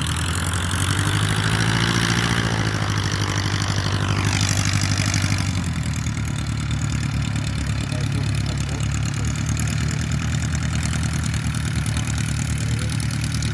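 Propeller aircraft engine running loudly. About four to five seconds in, its pitch drops sharply, then it settles into a steady lower drone.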